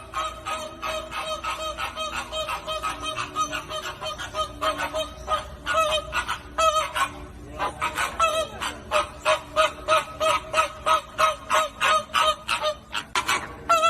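Flamingos honking: a dense, unbroken run of short goose-like calls, several a second, with some overlapping.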